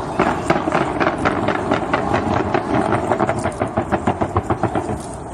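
Fireworks going off in a rapid string of sharp pops, about five or six a second, coming quicker past the middle and stopping shortly before the end.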